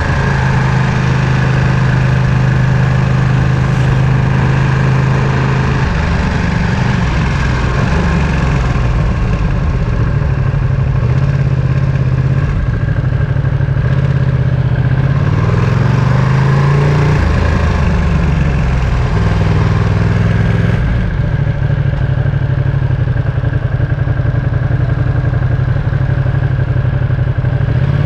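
Ducati Panigale V2's 955 cc Superquadro V-twin engine and exhaust while riding: it holds steady revs for several seconds, changes pitch repeatedly, rises in pitch around the middle as it accelerates, then settles back to steady running.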